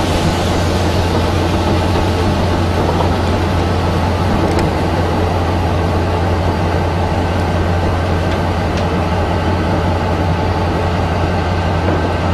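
Wooden passenger coaches of a steam-hauled train rolling slowly past: a loud, steady low rumble with a couple of faint, brief high ticks.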